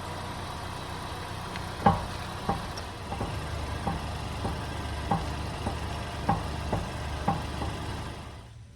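Repeated clunks from a 2019 Honda Accord's front steering as the steering wheel is turned back and forth. They come about one every half second from about two seconds in, over the steady hum of the engine idling. The clunking is caused by a loose, worn tie rod end.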